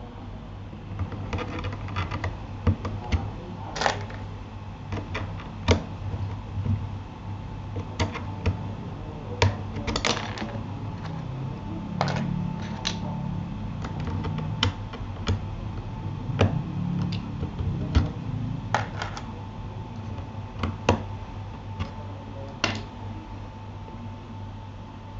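Scattered sharp plastic clicks and taps from a Keychron K8 mechanical keyboard being handled, at an uneven pace rather than a typing rhythm, over a steady low hum.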